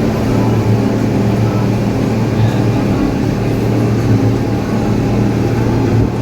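Tour boat's engine running steadily: a constant low drone.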